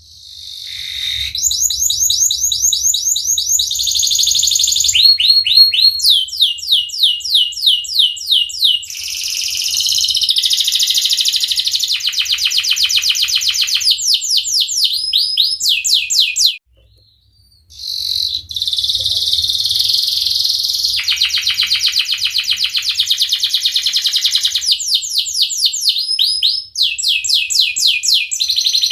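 Domestic canary singing long rolling trills: fast runs of rapidly repeated notes, switching from one trill to another every second or two, with a brief pause about two-thirds of the way through.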